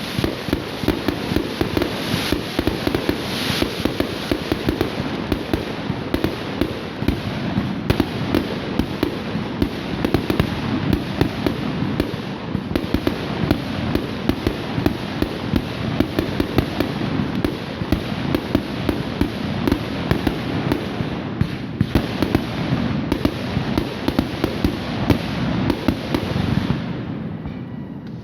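A fireworks display going off in a dense, continuous barrage of rapid bangs and crackles, so loud you could go deaf. It eases off briefly near the end.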